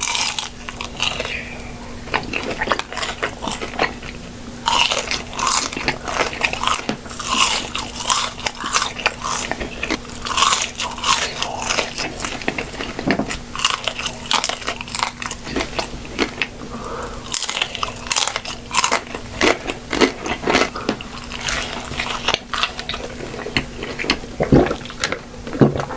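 Close-miked eating of fried fast food: repeated crunchy bites and chewing, irregular crackles coming every second or so, over a faint steady hum.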